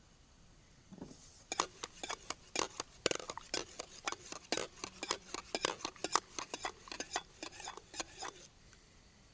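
Metal cutlery clinking and scraping against dishes or a pot, a quick irregular run of clinks lasting several seconds that stops a little before the end.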